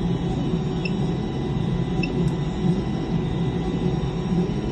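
Steady low machine hum with a noisy rumble, unchanging throughout.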